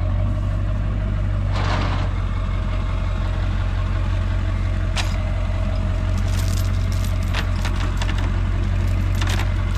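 A vehicle engine idling steadily, with a sharp click about five seconds in and a run of clicking and rattling in the second half.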